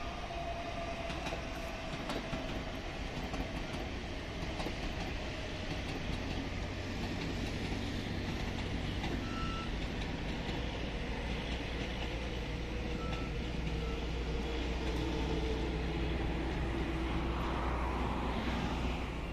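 Mumbai suburban electric local train (EMU) running and slowing for a station halt: a steady low rumble with a faint whine that slowly falls in pitch as it brakes.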